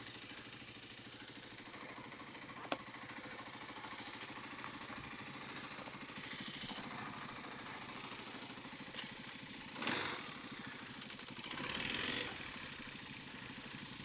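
Dirt bike engine idling steadily, with one sharp click about three seconds in and two short rushing noises near the end.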